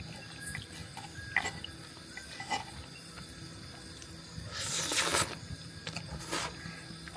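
Someone eating udon noodles: short wet slurping and chewing sounds, with a longer, louder slurp about five seconds in.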